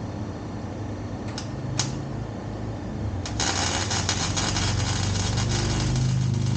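Exhaust pipe being MIG welded: after a steady low hum and a couple of clicks, a loud, dense crackle of the weld arc starts about three seconds in and keeps going.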